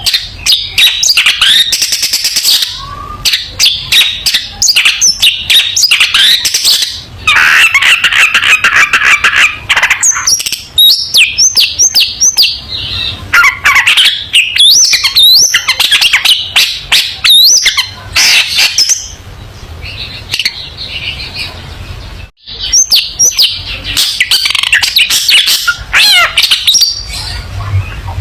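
Long-tailed shrike (cendet) singing in full voice: a long, fast run of chattering notes, harsh buzzy phrases and quick up-and-down whistles, broken by a few brief pauses.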